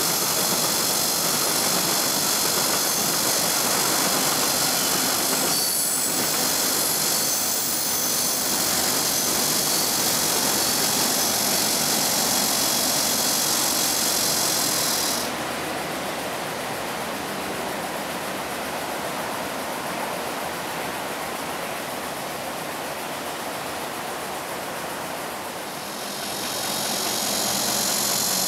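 Passenger coaches of a passing train running over the rails, a steady rolling rumble topped by a high wheel squeal that cuts off suddenly about halfway through; the noise eases, then swells again near the end.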